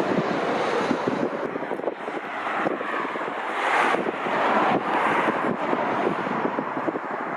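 Wind gusting on the microphone over the rumble of jet airliner engines, swelling and easing from moment to moment.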